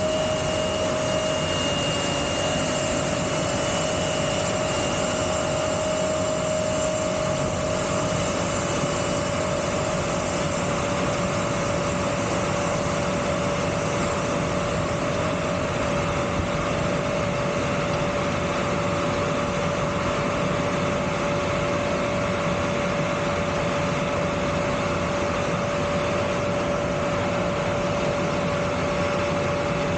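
Embraer 175 jet engines running steadily at idle: a constant whine over an even roar, with no change in pitch or level.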